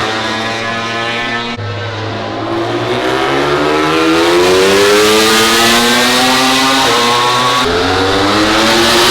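MotoGP racing motorcycle engine at high revs, its pitch climbing as the bike accelerates, with two sudden breaks in pitch, about one and a half seconds in and near the end.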